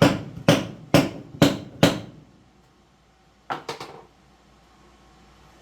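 A hammer striking wood: five sharp blows about two a second, then a quick group of three lighter taps about three and a half seconds in.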